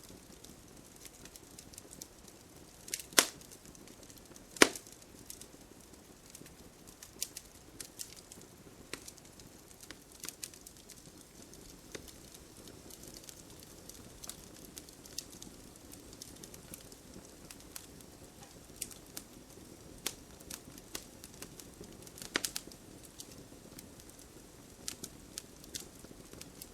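Campfire burning: a low steady rush of flame with scattered crackles and pops of burning wood. Two sharp pops stand out about three and four and a half seconds in, and a few more come together later on.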